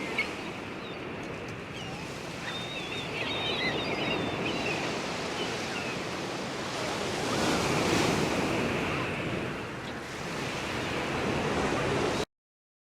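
Ocean surf washing steadily, swelling louder about two-thirds of the way through, with birds calling faintly in the first few seconds. The sound cuts off suddenly near the end.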